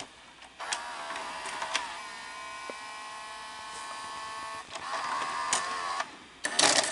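Sony SLV-R5UC S-VHS VCR's tape-loading mechanism running: the loading motor gives a steady whine for several seconds, with clicks from the gears and cam near the start and near the end. The machine sometimes fails to complete its loading cycle, which the owner puts down to a dirty mode switch.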